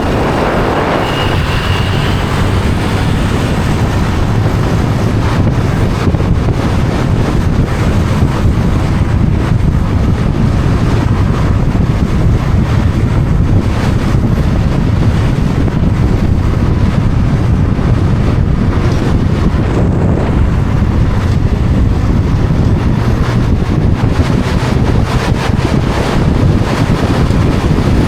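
Wind rushing over the microphone on a moving motorbike, a loud steady rumble, with the bike's engine humming underneath.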